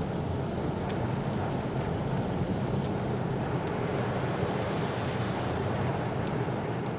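Steady low rumble of a car on the move, with a few faint ticks.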